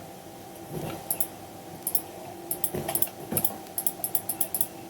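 Computer keyboard keys clicking in irregular quick runs, with a few softer knocks, over a faint steady hum.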